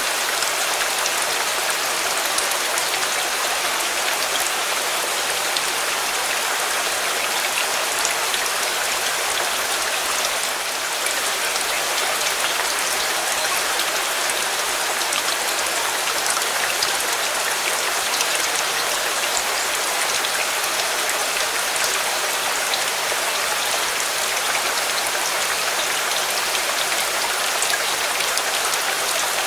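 Steady rain falling, a dense even hiss of many fine drops pattering on a surface.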